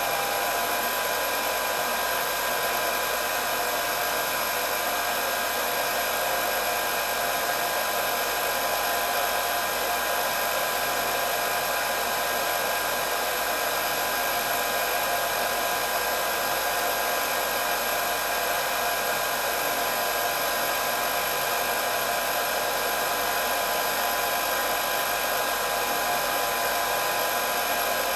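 Electric hair dryer running steadily on one setting, a constant whirring blow with a few steady whining tones over the rush of air.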